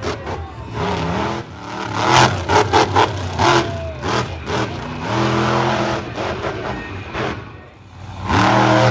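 Monster truck engine revving hard several times, its pitch climbing with each run-up, with a cluster of quick sharp throttle bursts a couple of seconds in.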